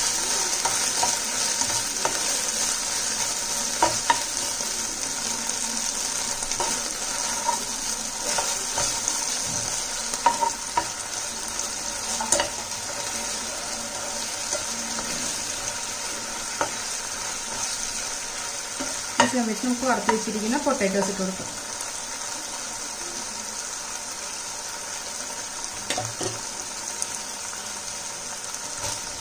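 Sauce gravy with onion and capsicum sizzling in a hot pan as it is stirred, with a spatula clicking against the pan now and then. A short wavering pitched sound comes about twenty seconds in, and the sizzle is a little quieter after it.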